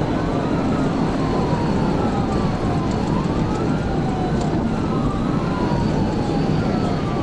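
Police cruiser siren wailing, its pitch sweeping slowly up and down again and again, over steady road and engine noise from a car driving at speed.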